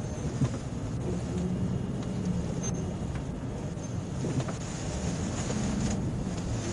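Police patrol car running as it slows for a traffic stop: a steady low rumble of engine and road noise, with a brief knock about half a second in.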